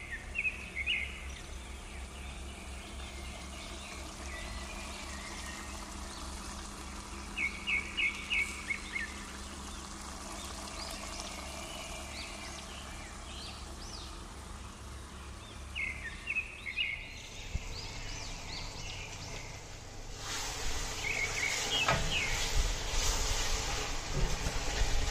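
Birds chirping in short bursts of several quick notes, four times, over a steady low hum. About twenty seconds in, a louder steady hiss comes in.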